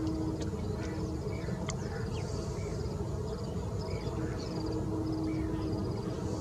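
Wetland birds giving quick runs of short high chirps, over a steady low rumble with a faint hum.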